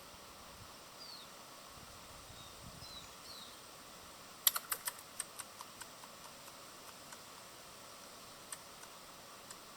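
Birds pecking at a feeder: a quick run of sharp taps and clicks about halfway through, slowing into scattered single clicks. A few faint high bird chirps come before.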